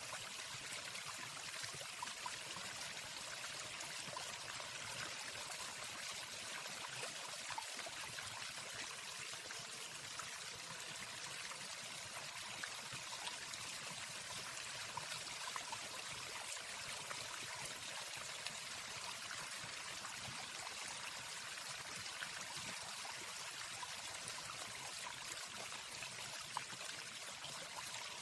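Waterfall sound: a steady, even rush of falling water.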